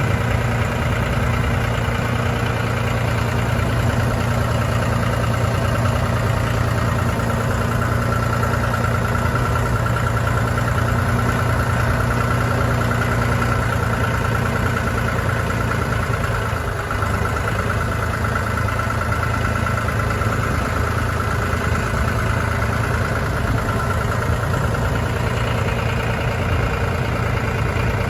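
John Deere 5045E tractor's diesel engine running steadily, with a thin steady whine over it through the middle.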